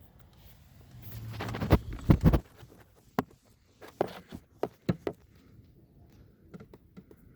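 Handling sounds of a repair: rustling with a few sharp clicks and knocks over the first two seconds or so, then single clicks and taps spaced out through the rest.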